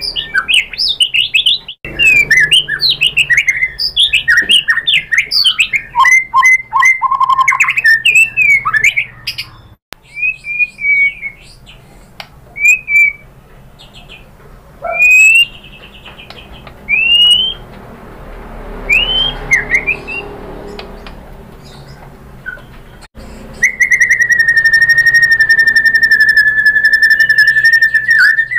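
White-rumped shama singing: a fast, varied run of whistled phrases and trills, then scattered single slurred notes, then one long, steady, held whistle near the end.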